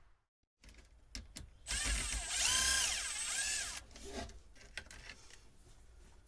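Cordless power drill run for about two seconds, its motor whine rising and falling in pitch as the trigger is worked, after a couple of sharp clicks.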